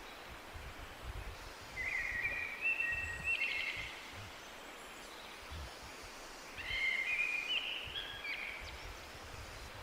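A songbird sings two short warbling phrases, about two seconds in and again around seven seconds, over a steady outdoor hiss with irregular low rumbling.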